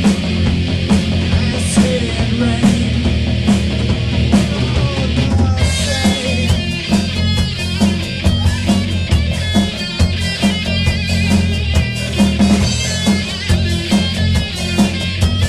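Rock band playing with electric guitar and drums on a steady beat; about five seconds in, the sound gets brighter and fuller.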